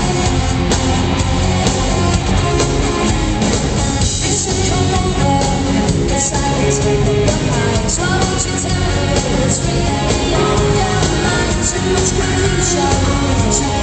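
Live rock band playing loud on stage with a woman singing, drums keeping a steady beat, heard through a camera microphone in an arena.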